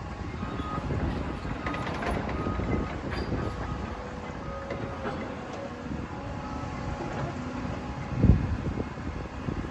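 Heavy demolition machinery running with a steady low rumble, faint metallic squeals and scattered clanks, and one loud thump about eight seconds in.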